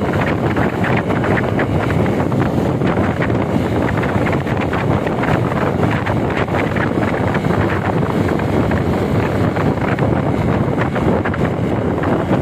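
Steady wind buffeting the microphone on a moving motorcycle, with the vehicle's running and road noise underneath.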